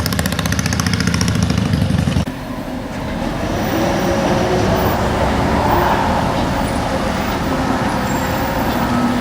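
Indian Big Base Scout motorcycle's V-twin engine running with rapid, even exhaust pulses. About two seconds in it cuts off suddenly and gives way to a quieter, steadier engine and road noise.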